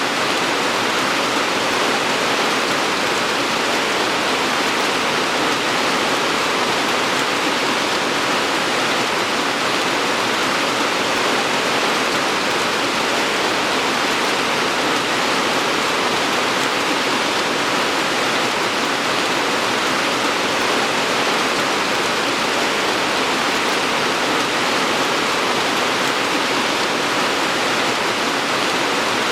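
Steady heavy rain falling, an even dense hiss without distinct drops or changes.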